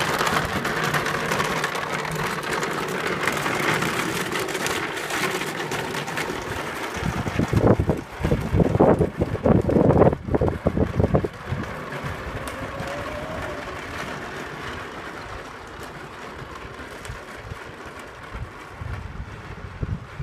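A vehicle running steadily on the move. About seven seconds in, loud gusts of wind buffet the microphone for several seconds, then the sound settles and fades.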